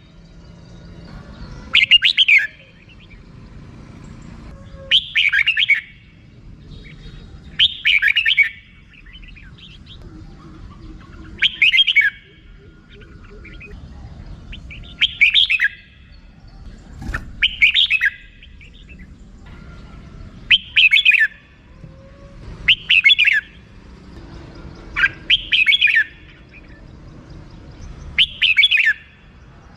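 Red-whiskered bulbul giving its short 'rik' call, a quick chattering burst repeated about every three seconds, ten times.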